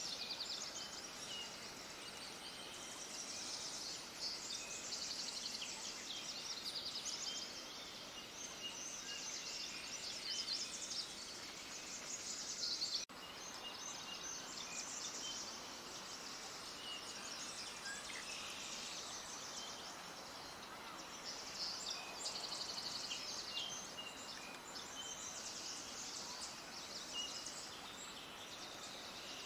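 A flock of small birds chirping and twittering together, a dense, continuous chorus of short high-pitched calls over a faint background hiss.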